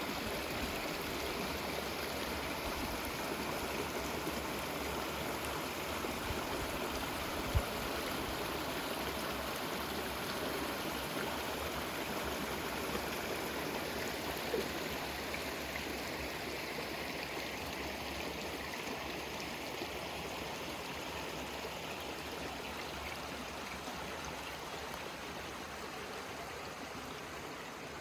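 A river flowing with a steady rush of water, and one brief thump about seven seconds in.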